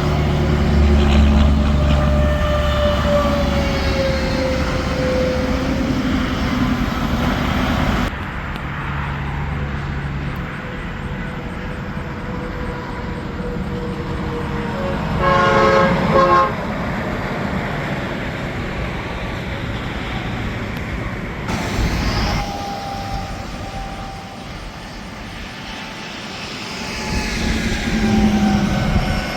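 Highway traffic passing, with heavy trucks' engine drone and tyre noise. About halfway through, a horn sounds once for about a second and a half.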